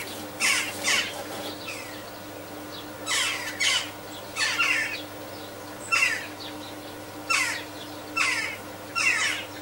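A bird calling repeatedly: short harsh calls, each falling in pitch, about ten of them at uneven intervals.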